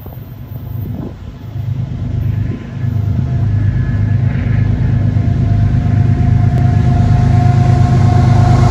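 CSX freight train's diesel locomotives approaching, a low steady engine rumble growing louder as they near, with a steady high tone over it in the last few seconds.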